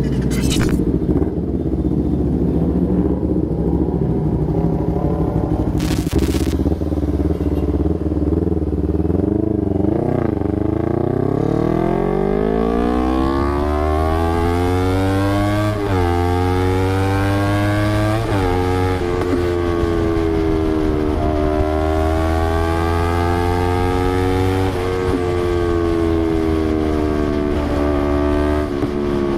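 Honda CBR250RR parallel-twin with an Austin Racing exhaust running at a steady low idle, then about ten seconds in pulling away with its note rising, two quick gear changes, and then holding a cruising note that rises and falls gently. Two short hissing bursts, one near the start and one about six seconds in.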